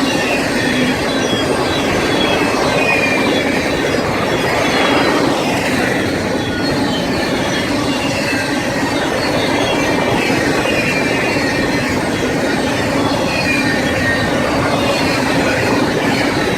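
A BNSF freight train's cars rolling steadily past on the rails, with short high-pitched wheel squeals coming and going over the rumble.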